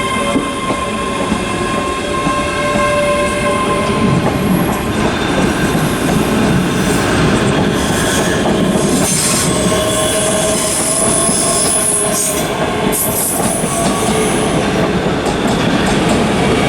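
ScotRail Class 385 electric multiple unit pulling out of the platform, running with a steady rumble and clatter over the track. High wheel squeal rises about ten seconds in.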